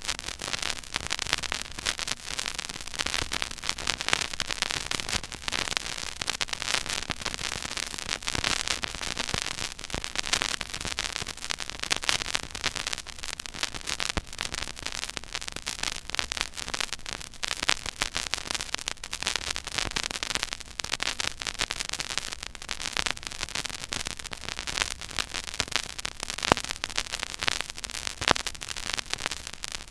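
Stylus tracking the silent groove of a 12-inch 33 1/3 rpm vinyl record: surface noise of steady hiss with dense, irregular crackle and pops, over a faint low hum.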